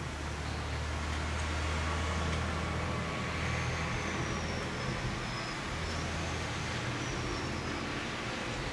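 A motor vehicle's engine running, with a low hum that is strongest for the first few seconds and then eases, under a steady rush.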